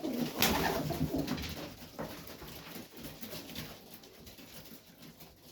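Highflyer pigeons cooing in a loft, with a short, loud burst of noise about half a second in.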